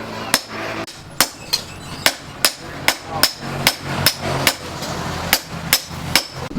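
Hand hammer striking chainsaw-bar steel on an anvil, forging a knife blade: a steady run of sharp, ringing blows at about two to three a second, with a brief pause about five seconds in. A low hum runs underneath.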